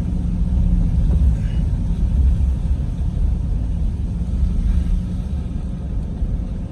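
Steady low rumble of a vehicle driving, engine and road noise heard from inside the vehicle.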